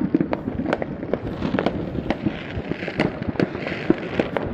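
Many fireworks and firecrackers going off at once: a rapid, irregular string of sharp pops and bangs over a continuous crackle.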